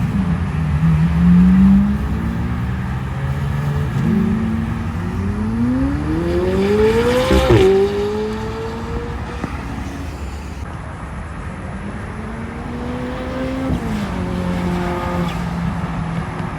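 Car engine accelerating hard: its pitch climbs steadily to a peak about seven seconds in, drops sharply at a gear change, then climbs and drops again near the end.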